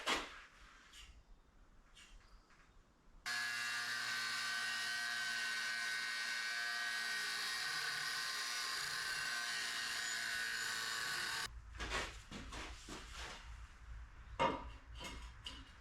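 A handheld power tool running steadily for about eight seconds, a high whine with hiss that starts and stops abruptly, with metal-fabrication handling knocks and clatter before and after.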